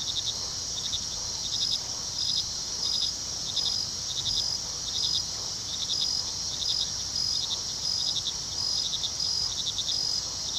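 Night-time field recording of a cricket chorus: short chirps in regular groups over a steady high-pitched insect drone.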